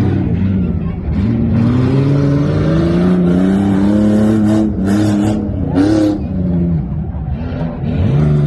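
Truck engine revving hard under load on a Tuff Trucks obstacle course. Its pitch climbs for a few seconds, falls away and flares back up about two seconds later, with a few short rough bursts of noise in the middle. It climbs again near the end.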